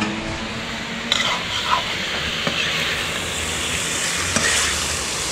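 Chicken sizzling as it fries in a metal wok over a gas burner, with a metal spatula stirring it and clicking against the pan a few times.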